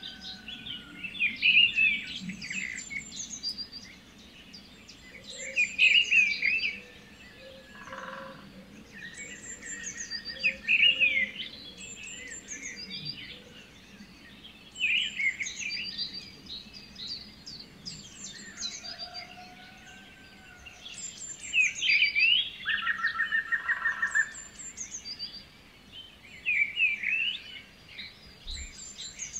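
Several songbirds singing and chirping, a short song phrase every few seconds with high chirps between, and a rapid trill of repeated notes twice.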